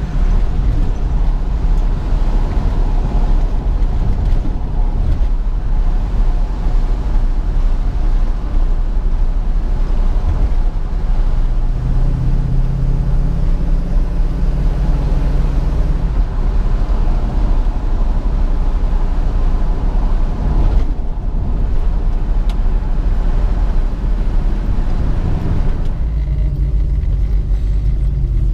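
1967 Ford Mustang's 289 V8 running steadily while driving, mixed with road noise. The engine note shifts partway through, and the higher sounds fall away near the end.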